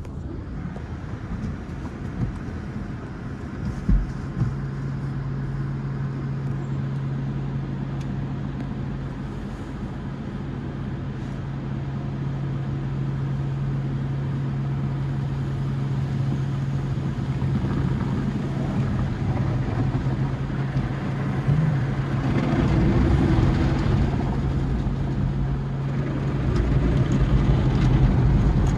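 Tunnel car wash machinery heard from inside a car riding through a Sonny's wash tunnel: a knock about four seconds in, then a steady low hum with two louder rushing spells later on.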